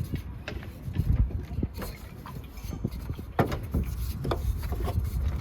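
Cookware and utensils being handled during cooking: scattered clicks and knocks, a few sharper ones, over a steady low rumble.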